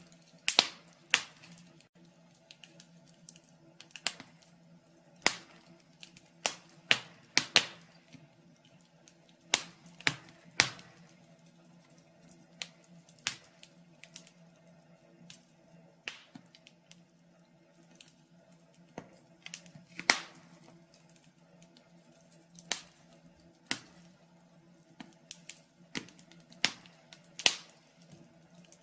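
Wood fire in a fireplace crackling: sharp, irregular pops and snaps, sometimes a few in quick succession, sometimes seconds apart, over a faint steady low hum.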